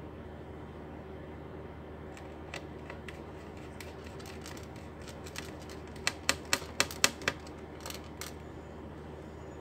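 Small clicks and taps of laptop parts being handled during a repair, with a quick run of about six sharp clicks a little past the middle, over a steady low hum.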